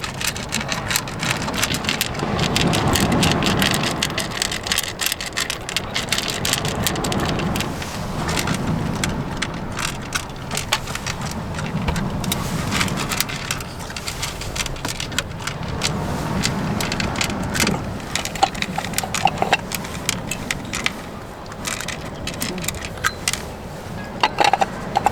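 Strong wind gusting, swelling and easing every few seconds, with scattered clicks and light rattles throughout.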